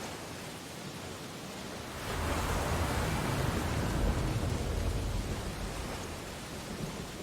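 Ocean waves on a beach: a steady wash of surf, with a wave breaking about two seconds in and swelling for a few seconds before easing back.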